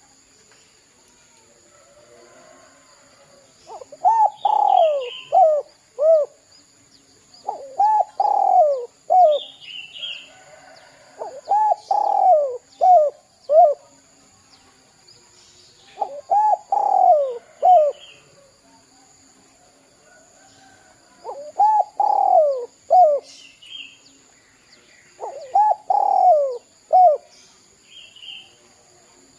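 Spotted dove (derkuku) cooing in repeated phrases about every four seconds, each a drawn-out falling coo followed by two short clipped 'kuk' notes. Faint chirps from another small bird fall between the phrases.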